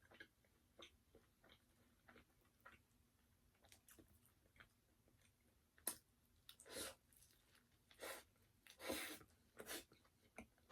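Close-up chewing of crispy fried chicken: soft, light mouth clicks at first, then several louder crunches from about six seconds in.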